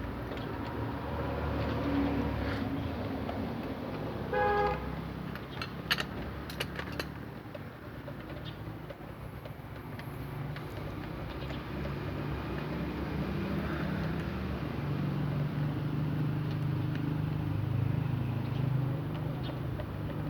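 A steady low engine rumble, with a short vehicle horn toot about four and a half seconds in and a few sharp clinks a couple of seconds later. The rumble grows stronger in the second half.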